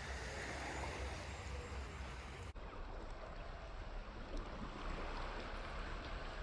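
Steady outdoor ambient noise: a low rumble under a faint hiss, with no distinct events. The high hiss cuts away abruptly about two and a half seconds in.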